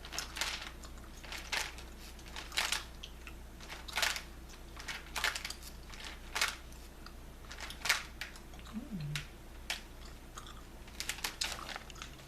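Bubble gum chewed close to the microphone: sharp wet smacks and clicks at a steady pace, about one a second.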